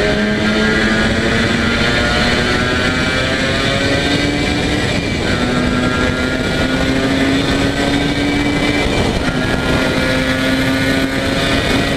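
Yamaha TZR250 (1KT) two-stroke parallel-twin engine running under load, its pitch climbing steadily, dropping sharply about five seconds in and again about nine seconds in as it shifts up a gear, then climbing again.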